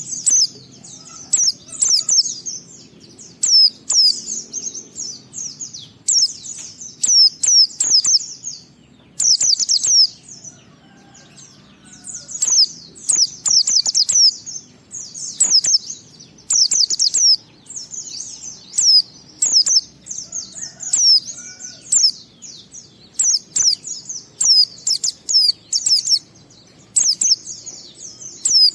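Oriental white-eye (pleci) singing its long, full 'ngalas' song: rapid runs of thin, high twittering notes in phrases of a second or two, one after another with brief pauses.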